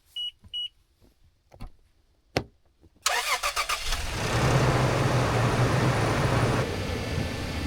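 Two short high beeps and a couple of clicks, then about three seconds in a car engine cranks, catches with a brief sputter and settles into a steady idle.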